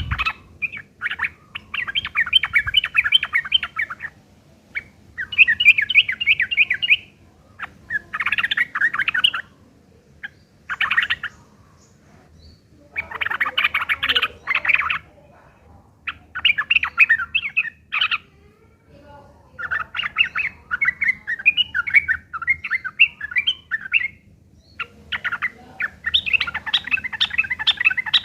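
Yellow-vented bulbuls (trucuk) giving a rough, rapid chattering call in about eight bursts of one to three seconds with short pauses between them. It is the harsh fighting chatter used as a lure to make other trucuk call back.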